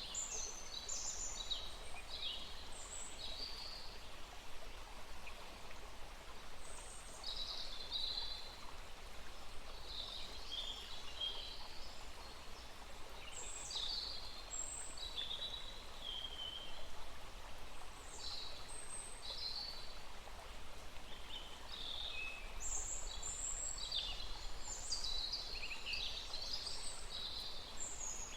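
A small forest stream flowing steadily while several birds call with many short, high chirps throughout.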